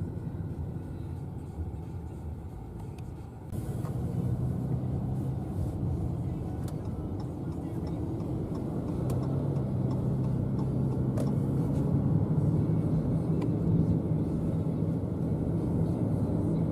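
Car engine and tyre noise heard from inside the cabin: a steady low drone that grows louder about three and a half seconds in.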